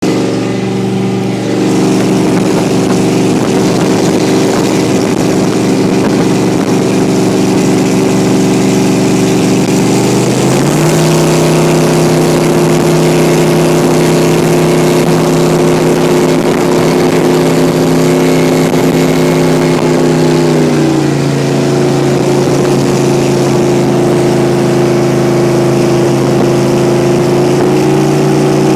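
Supercharged speedboat engine running steadily at speed over a constant rushing noise. Its pitch steps up about ten seconds in, drops back around twenty seconds in, and rises again near the end.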